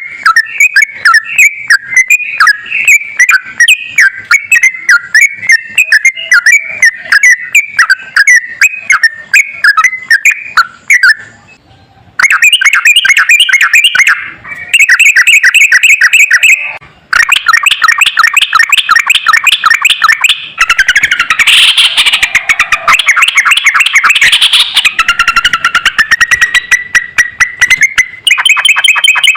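Sooty-headed bulbul song recording: fast, continuous runs of rapidly repeated chattering notes in several long phrases, broken by brief pauses.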